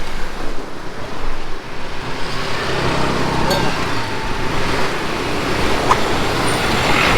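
Street traffic ambience heard from a moving bicycle: steady road noise with a motor vehicle passing near the middle, and a couple of brief clicks.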